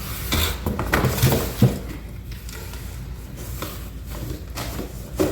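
Packaging being handled as a box of accessories is pulled out and opened: a quick series of cardboard and plastic knocks and rustles in the first two seconds, then quieter rustling with one more knock near the end.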